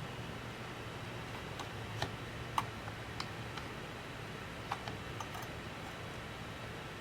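Scattered small sharp clicks and taps at irregular intervals, like tools and small parts being handled on a repair bench, over a steady low hum. The loudest click comes about two and a half seconds in.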